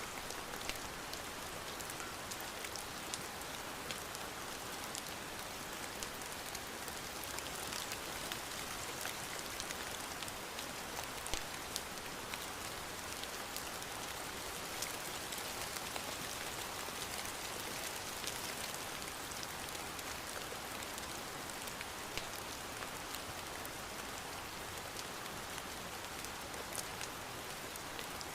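Steady rain falling, an even hiss with many small scattered taps of drops on a surface.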